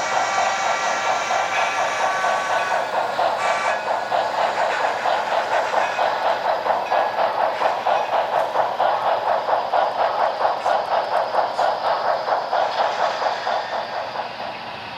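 HO scale model steam locomotive's sound decoder playing a fast, steady chuff rhythm through a small onboard speaker, thin and with little bass. It softens near the end.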